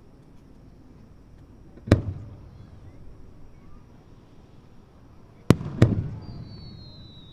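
Aerial firework shells bursting at a distance: one sharp bang about two seconds in, then two more in quick succession about five and a half seconds in, each followed by a rumbling echo. Near the end a thin high whistle glides slowly down in pitch.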